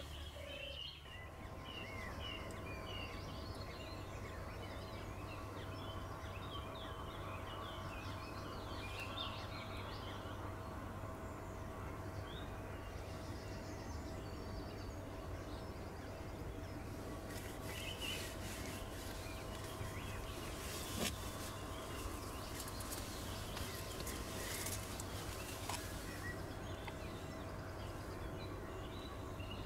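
Small birds chirping and calling at a pond, with many short chirps, most in the first half, over a steady low rumble and a faint steady hum. Scattered light crackles come in the second half.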